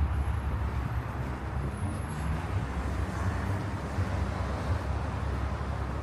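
Steady rumble of city traffic, cars driving along snow-covered streets.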